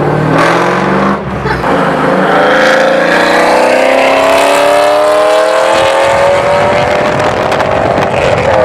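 Pontiac Trans Am's LS1 V8 with long-tube headers and a 3-inch stainless Y-pipe, loud and accelerating hard at full throttle, its pitch climbing steadily with a brief drop about a second in.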